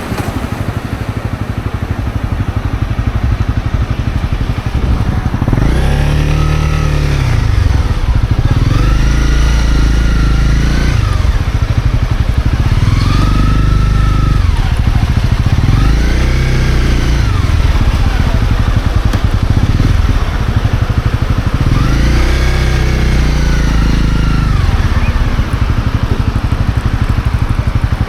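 Honda CB250R's single-cylinder four-stroke engine under way, its pitch rising and falling several times as the throttle is opened and closed, over a steady rush of wind and road noise.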